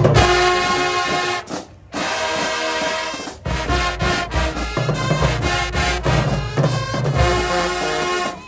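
High school marching band's brass section playing loud held chords, with short breaks between phrases about a second and a half in and again near three and a half seconds.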